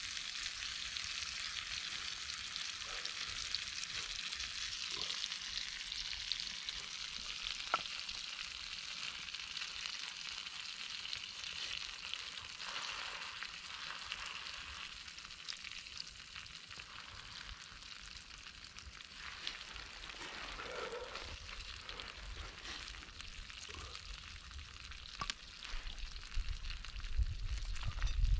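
Food frying in a pan: a steady sizzling hiss with scattered small pops and crackles, easing somewhat in the second half. A low rumble comes in near the end.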